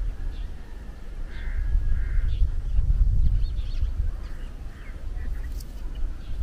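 A series of short, harsh bird calls, several a second apart, over a low rumble of wind on the microphone.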